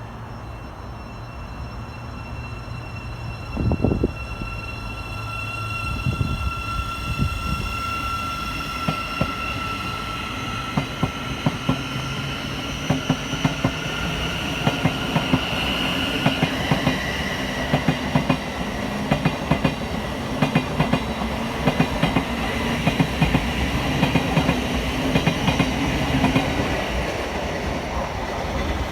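Electric train running along the track, its wheels clicking over rail joints more and more often, with a high steady whine. It grows slowly louder.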